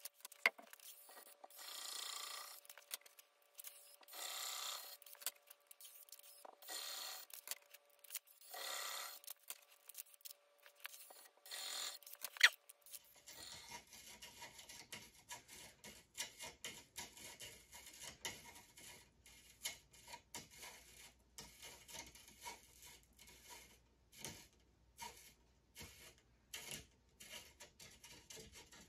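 Hand rasping or rubbing strokes on a wooden cedar arrow shaft, a slow even stroke about every two seconds. Then a sharp click, and after it a run of quick, light taps and scrapes.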